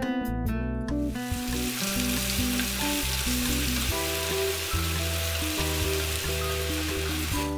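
Chopped onion frying in hot oil in a pan, sizzling steadily while stirred with a wooden spatula. The sizzle starts about a second in and cuts off just before the end, over light background guitar music.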